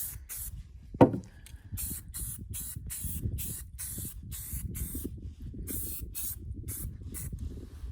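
Aerosol spray-paint can (Rust-Oleum Painter's Touch Ultra Cover paint and primer) hissing in many short bursts, several a second, as paint is sprayed onto wooden beehive boxes. A single sharp knock about a second in.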